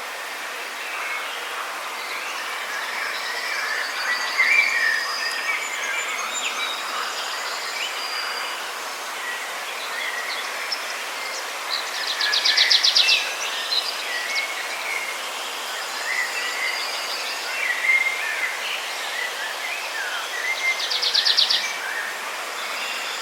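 Tropical rainforest ambience: a dense chorus of birds chirping and calling over a steady hiss of insects. A fast pulsing trill stands out twice, about twelve seconds in and again near the end.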